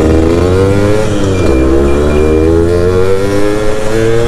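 Yamaha F1ZR two-stroke motorcycle engine accelerating while riding, its pitch climbing, dropping briefly at a gear change about a second and a half in, then climbing again. Faint beeps from the turn-signal buzzer come through mid-way.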